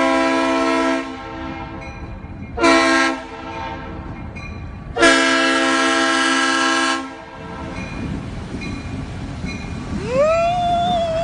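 Multi-note air horn blasting three times: a blast ending about a second in, a short one near three seconds, and a long one of about two seconds, over a steady rumbling. Near the end, a tone rises and then holds.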